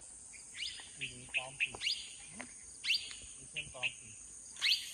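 Birds calling in short, sharp down-slurred chirps, several a second at times, over a steady high-pitched drone of insects.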